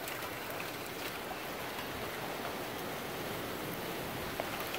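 Steady hiss of heavy rain and wind from a severe thunderstorm, with a few sharp ticks of drops striking nearby.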